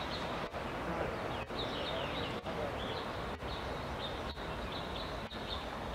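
Steady outdoor background noise with many short, high chirps from small birds, several falling in pitch. The recording drops out very briefly about once a second.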